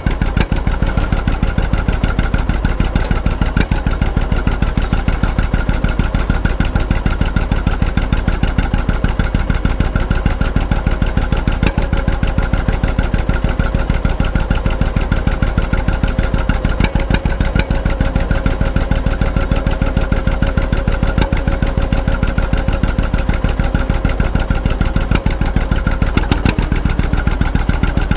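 Antique tractor engine running steadily, its firing strokes heard as a rapid, even beat that holds at the same speed and loudness throughout.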